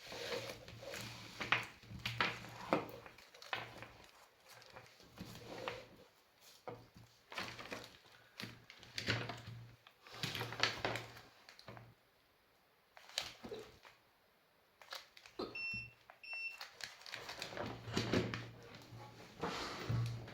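Hands working on an opened electric scooter lithium battery pack and tools on a bench: irregular clicks, knocks and rattles, with a low hum that comes and goes. Two short electronic beeps sound about fifteen seconds in.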